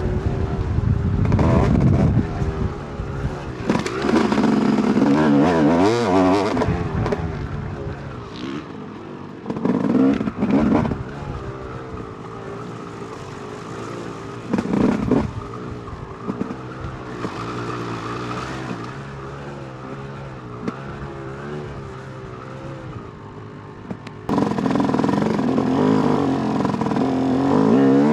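A 2008 Yamaha YZ250's two-stroke engine being ridden on a dirt track: it revs hard in bursts and drops back off the throttle between them, with a quieter stretch at low revs in the second half before opening up again near the end.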